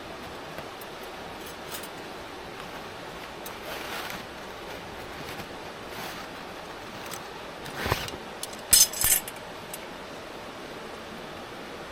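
Steady outdoor background hiss, broken near the end by a knock and then two sharp clinks in quick succession, like camp cookware or utensils being handled.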